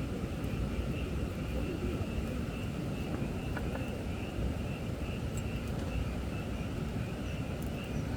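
Firewood burning with a steady low rumble and a few faint crackles, while frogs call in a quick, even chorus of short notes, about two or three a second.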